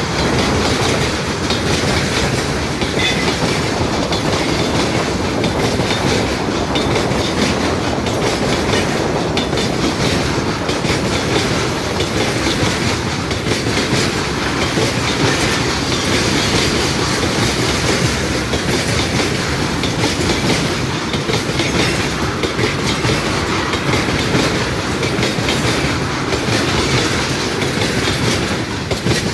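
A train rolling past, its wagons' wheels clattering over the rail joints in a loud, steady clickety-clack.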